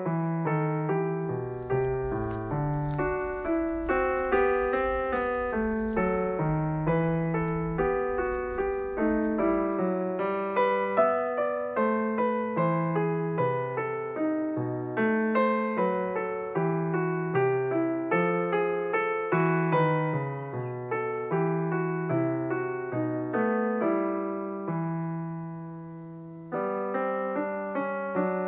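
Background solo piano music: a gentle melody of struck, decaying notes. Near the end it fades briefly, then the notes start again.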